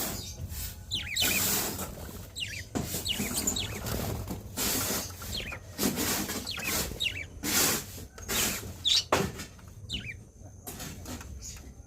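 Pet parakeets chirping in short falling notes while feeding, amid many short scratchy clicks and rustles from pecking at food.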